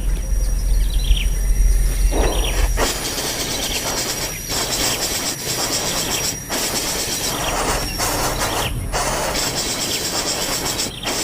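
Outdoor ambient noise: a low rumble for the first few seconds, then a steady hiss broken by several brief dropouts.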